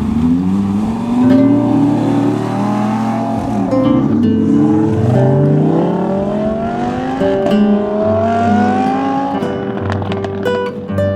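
A performance car accelerating hard, its engine note climbing through several upshifts, over background music.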